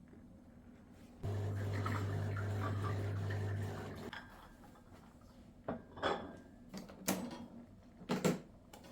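A steady hum lasting about three seconds cuts off, then dishes clink and clatter several times.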